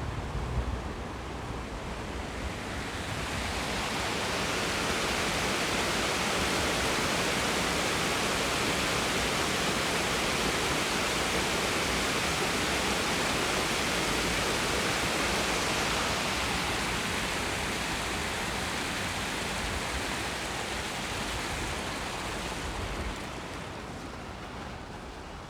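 Steady rush of falling water, a cascade on the river, swelling over the first few seconds, holding, and fading near the end.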